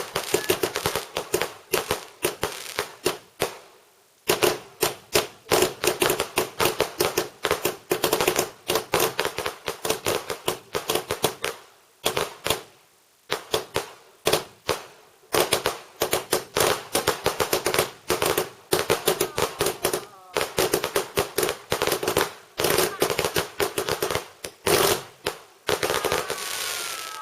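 Fireworks going off in long rapid runs of sharp crackling bangs, dozens a second at times, with a few short pauses. Near the end the bangs stop and a wavering high-pitched call begins.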